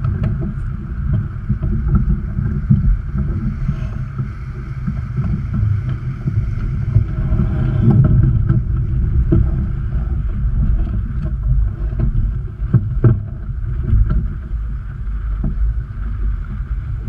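Wind buffeting the microphone aboard a sailboat under way: a loud, gusting low rumble that rises and falls, with a few faint knocks.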